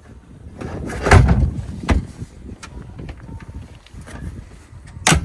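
Thuds and knocks from the boat's cockpit fittings being handled: a heavy thud about a second in, a lighter one a second later, and a sharp knock near the end.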